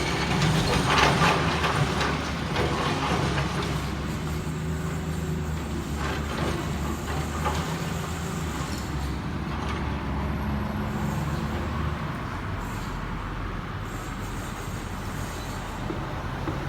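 Excavator diesel engine running steadily, with scattered knocks. The engine note changes and settles lower about twelve seconds in.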